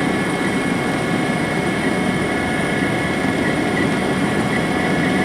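Helicopter in flight heard from inside the cabin: a steady engine and rotor noise with a constant high-pitched whine over it.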